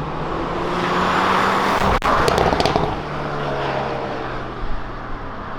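Hyundai Veloster N's turbocharged four-cylinder engine and exhaust under way. About two seconds in there is a sharp crack, with a few short crackles after it, and the engine then settles to a lower, steady note.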